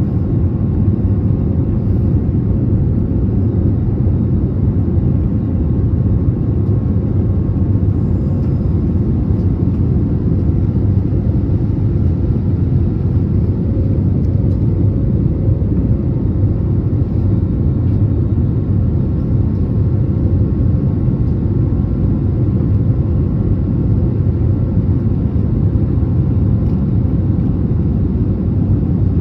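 Steady cabin noise of an Airbus A320neo in flight: an even rumble of engines and airflow with a faint steady hum above it.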